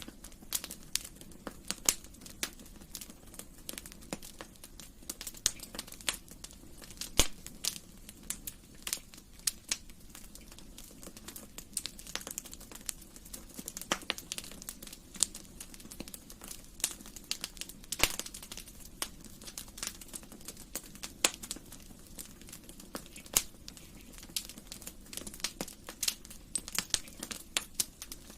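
Wood fire crackling in a fireplace: irregular sharp pops and snaps, a few louder than the rest, over a faint steady low noise.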